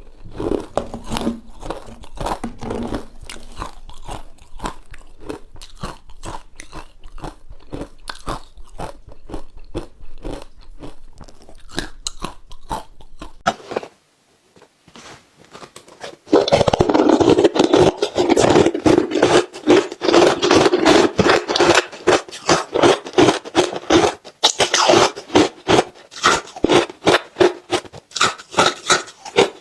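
Ice being bitten and chewed close to the microphone: dense, rapid crunching that stops for about two seconds halfway through, then comes back louder.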